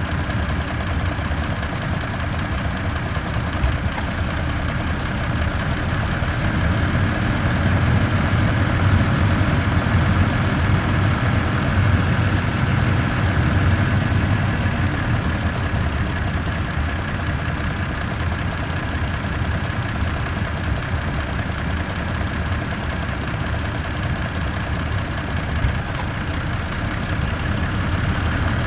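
Toyota Tacoma TRD Off-Road pickup running steadily with a weird helicopter-like sound, which the owner takes for abnormal and has not traced.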